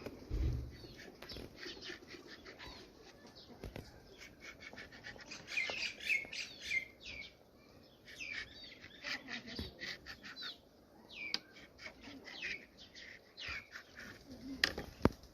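Birds chirping: many short, high calls in quick runs, with scattered sharp clicks and taps, the loudest click near the end.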